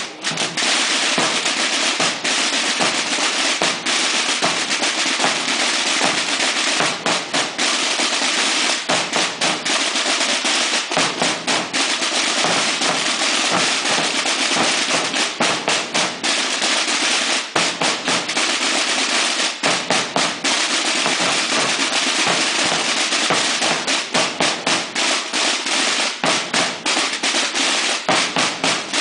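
A Semana Santa drum corps of many tambores, snare-type drums, playing without a break. It is a dense, continuous roll broken by repeated sharp accented strokes.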